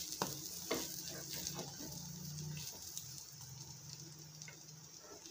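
A folded potato pancake sizzling gently in oil in a flat steel pan, with a metal slotted spatula scraping and tapping against the pan a few times in the first seconds. A low steady hum runs underneath.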